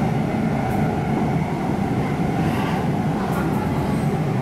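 Cabin running noise of an MTR Tung Chung Line K-train under way: a steady rumble of wheels on rail, with no change in level.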